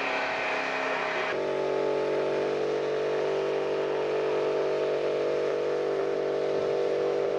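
Car burnout: a car engine held at high revs with the hiss of spinning tyres. About a second in this gives way abruptly to an engine running at a steady, even pitch.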